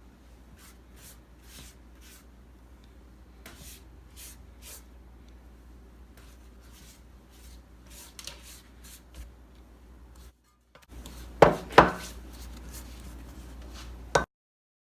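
Rolling pin working spinach wrap dough on a board: soft rubbing with light knocks, then two louder knocks close together past the middle and one more near the end, before the sound cuts off.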